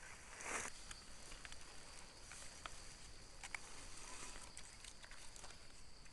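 Dry leaves and forest litter rustling and crackling with scattered small twig snaps, a brief louder rustle about half a second in, as someone moves and searches through it.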